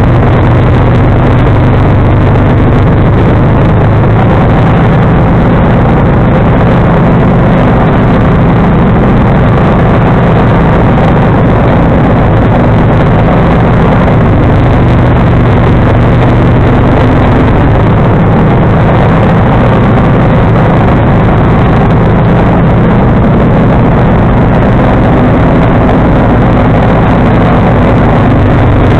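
John Deere 445 garden tractor's liquid-cooled Kawasaki V-twin running loud and steady while driving a 47-inch front-mounted snowblower, with no change in engine speed.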